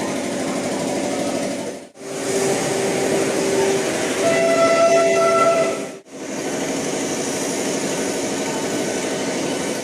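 Vande Bharat Express train running with a dense, steady rattle. In the middle stretch its horn sounds held steady notes, first one lower tone and then a higher one. The sound breaks off abruptly twice, about two and six seconds in.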